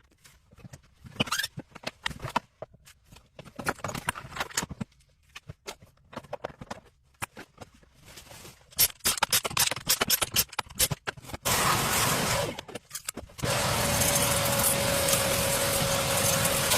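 Clicks and clatter of tools and boiler parts being handled. About eleven seconds in, a loud, steady hissing rush starts. It breaks off briefly, then resumes with a faint steady whine in it.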